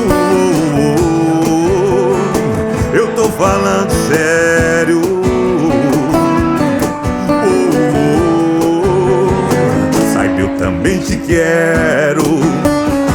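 Acoustic sertanejo band playing a passage without lyrics: acoustic guitar accompaniment under a melodic lead line with vibrato.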